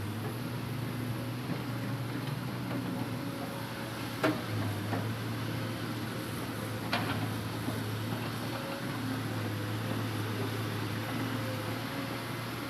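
Hitachi Zaxis 200-5G excavator's diesel engine running steadily, its pitch shifting slightly a few times as the machine works. Two sharp knocks stand out, the louder about four seconds in and another about seven seconds in.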